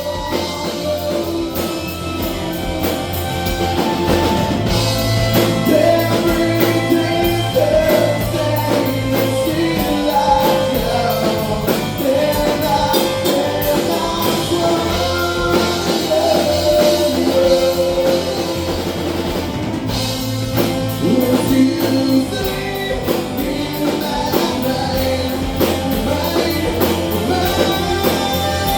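Live rock band playing a song, with a singer's voice over drums and a steady bass line.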